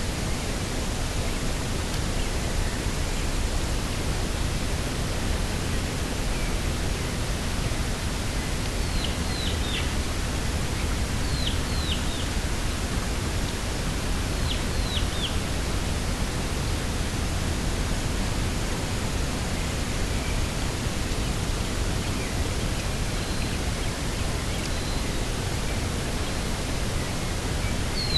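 Steady rushing of coastal wind and sea, heaviest in the low end. A small bird gives short, high, falling chirps in twos and threes, about a third of the way in, again around the middle, and once more at the end.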